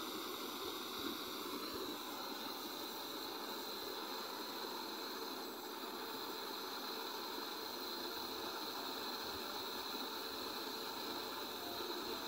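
Steady hiss of a flame burning off oil inside a motorcycle exhaust, even and unbroken throughout.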